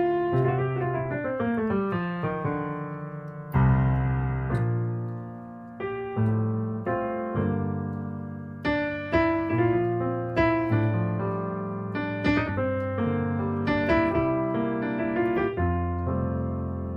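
Piano playing a slow, chord-rich passage with jazz-coloured harmony. A falling run of notes comes in the first couple of seconds, then full chords are struck one after another, each left to ring and fade, the loudest about three and a half seconds in.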